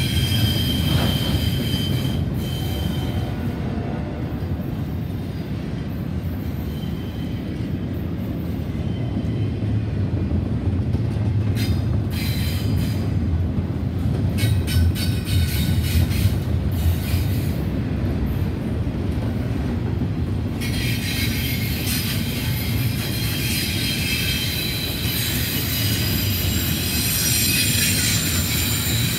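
Double-stack intermodal freight train rolling past with a steady low rumble of wheels on rail. High-pitched metallic squealing from the wheels comes briefly near the start and in a few short stretches around the middle, then turns into a continuous shrill screech for the last third.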